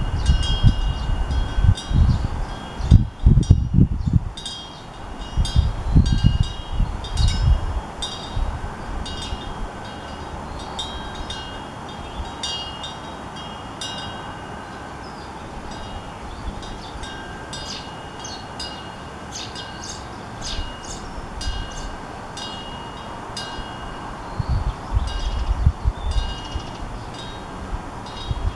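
Korean temple wind bell (pungyeong) ringing irregularly in the wind, its clapper striking again and again while the tones hang on. Gusts of wind buffet the microphone in the first several seconds and again near the end.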